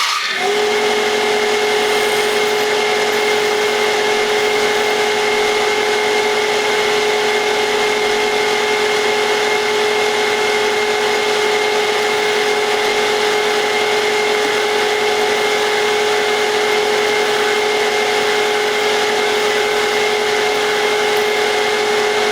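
Milling machine spindle switched on in its high speed range: it spins up right at the start, then runs at a steady whine.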